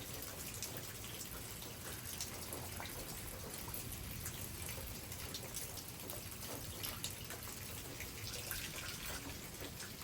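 Rain easing off after a thunderstorm: a steady light hiss with scattered drops and drips ticking at irregular intervals.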